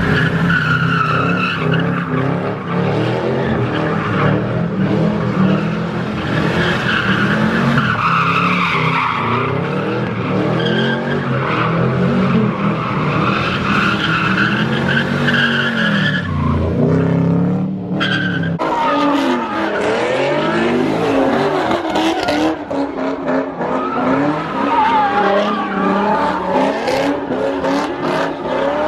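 Car engines revving and tyres squealing continuously as cars spin donuts and drift, the pitch of the engines wavering up and down; the sound changes abruptly about two-thirds of the way through.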